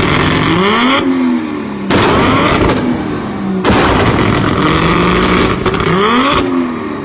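Toyota Supra with an aftermarket exhaust accelerating hard: the engine note climbs through the revs and drops back at each gearshift, with crackling pops from the exhaust. The sound jumps abruptly a few times, as separate short clips cut together.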